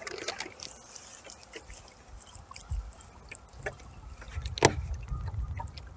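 A hooked bass being reeled in to a small boat: scattered clicks and light water splashing, with a low rumble twice, the longer one in the second half.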